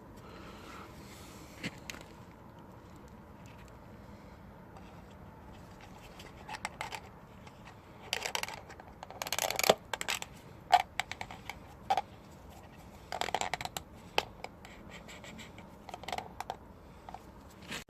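Hand-work sounds of tools and parts being handled: scattered clicks and clinks with short scraping, rustling bursts, busiest around the middle. The sharpest clicks come just after the middle.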